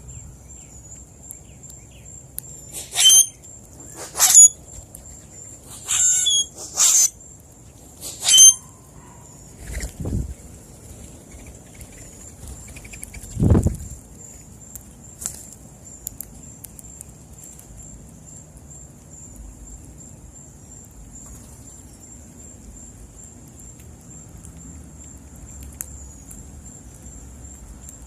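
Birds at a seed feeder giving five short, harsh calls a second or so apart in the first third, followed by two softer dull sounds. A thin, steady high tone runs underneath throughout.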